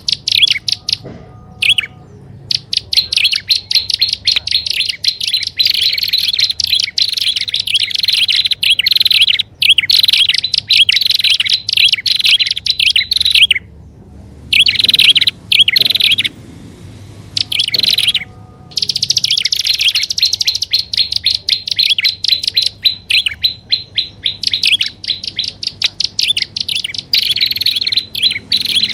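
Bird-lure playback of prinia (prenjak) calls: long runs of fast, sharp chattering notes, loud and dense, broken by a short pause about two seconds in and a longer lull a little past halfway.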